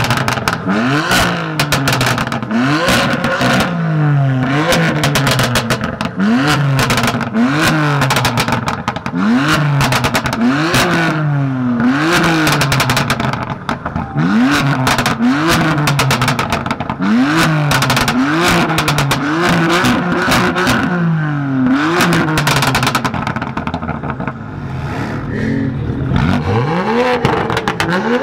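A car engine with an aftermarket exhaust being revved hard over and over, the pitch climbing and falling back about every one and a half seconds, with sharp crackles and pops from the exhaust between revs. The revving pauses briefly after about twenty-two seconds, then one more rev comes near the end.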